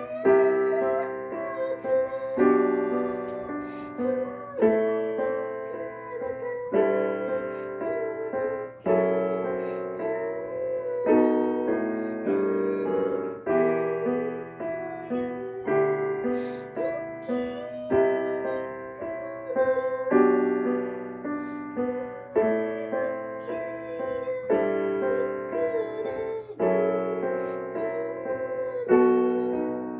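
Slow piano music: sustained chords changing every second or two, with a wavering melody line above them.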